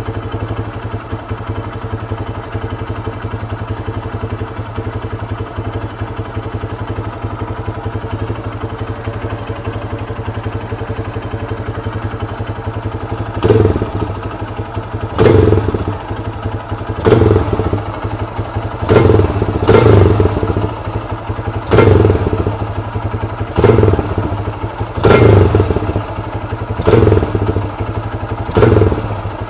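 Lifan 200 cc motorcycle engine with a PZ30 carburettor idling steadily, then revved in about ten short throttle blips, one every couple of seconds, each dropping straight back to idle. The quick throttle snaps test the carburettor's accelerator pump.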